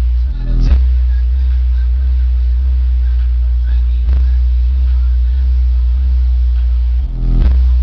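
Music playing loud through a basic car audio system, dominated by heavy, steady bass under a repeating pattern of notes, with a sharp hit about a second in and again near the end.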